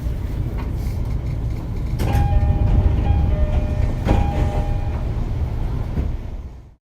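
Running sound of an E231 series electric train heard from inside the car: a steady low rumble with a sharp wheel clack about every two seconds, and a steady whine through the middle. It fades out and cuts off near the end.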